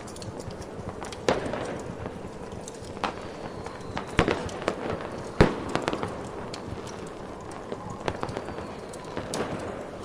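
Fireworks going off: a handful of sharp bangs, the loudest about five seconds in, with small crackles between them over a steady rushing background.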